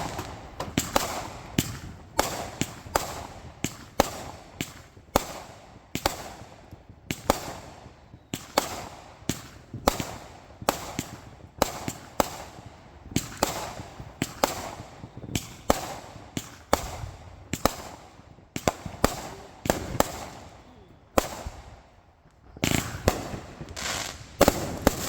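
Consumer fireworks going off in quick succession: sharp bangs about one to two a second with crackling between them. After a short lull near the end comes a dense, loud flurry of bangs and crackle.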